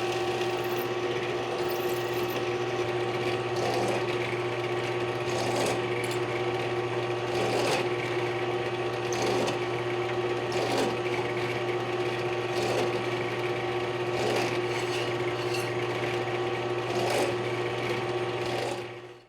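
A drill running with a steady hum while its bit cuts holes in steel plane soles through a drilling guide. The cutting noise swells every second or two, and the sound cuts off suddenly at the end.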